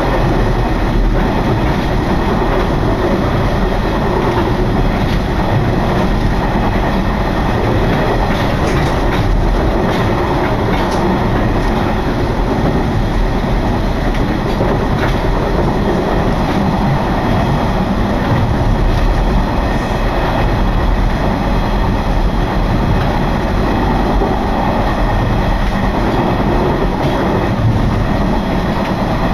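Passenger train running steadily along the line, heard from inside the carriage: a continuous rumble of wheels on rails, with wind blowing across the microphone from an open window.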